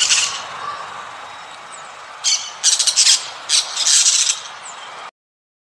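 A series of harsh, raspy animal squawks in short bursts, clustered about two to four and a half seconds in, cutting off suddenly about five seconds in.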